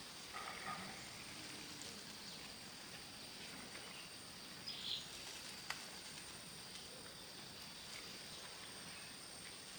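Faint outdoor ambience with a steady high insect drone, a few scattered light clicks, and one brief chirp about five seconds in.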